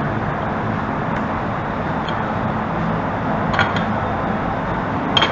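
Steady background din of a restaurant open to street traffic, with two short clinks of tableware, one past the middle and one near the end.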